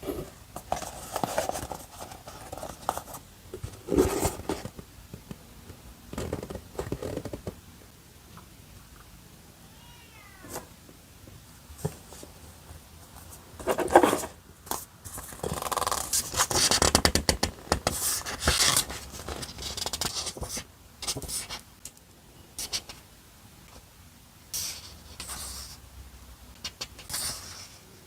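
Paper and stickers being handled: irregular rustling, crinkling and scraping, in bursts with short quiet gaps between them.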